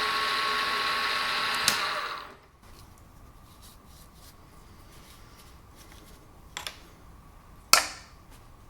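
Aciera F1 milling machine running with a steady whine, switched off about two seconds in and spinning down. Later come a small click and then a louder sharp click.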